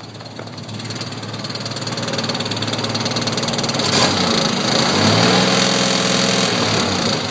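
A 1986 Chevy S10's 2.8 V6 revved from idle, its revs climbing over several seconds, held up, then easing off near the end. Under it runs a light, rapid clatter likened to a card in bicycle spokes, too light for a rod knock, which the owner suspects comes from the clutch.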